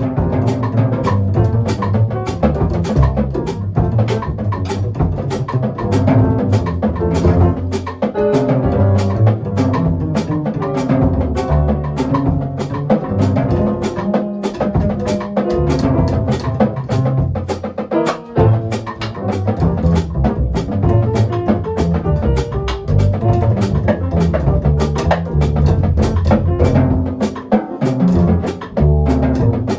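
Jazz quartet playing, with a drum kit keeping up a dense run of cymbal strokes over a walking double bass line.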